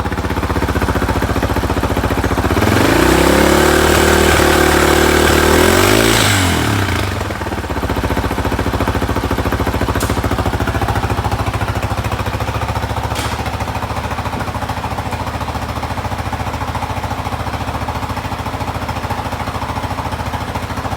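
Yamaha Tricker's air-cooled single-cylinder four-stroke engine idling steadily, revved up about three seconds in, held higher for a few seconds, then dropping back to idle. Two sharp clicks later on.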